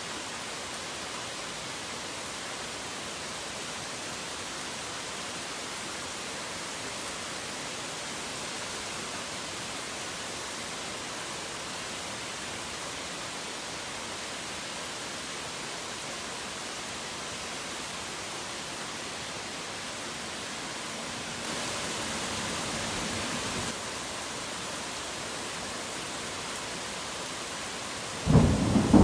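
Steady hiss of heavy rain, briefly a little louder for about two seconds in the last third. Near the end a sudden loud clap of thunder breaks in and rumbles on over the rain.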